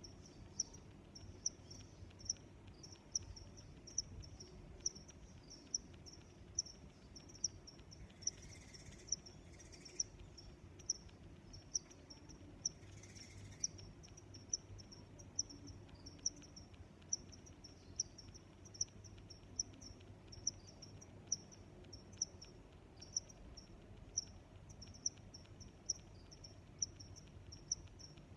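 Crickets chirping, short high-pitched chirps repeating steadily several times a second, with a sharper tick standing out about every half second.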